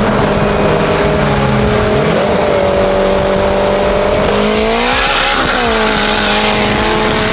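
Car engine running steadily under way; its pitch climbs and then drops back about five seconds in.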